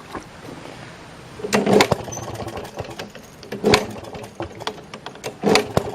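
Maytag Model 92 single-cylinder two-stroke engine being kick-started and not keeping running: three short bursts of clatter and firing, about two seconds apart, with quieter stretches between. The owner traces the stalling to air being sucked in around a gasket smeared with gasket maker.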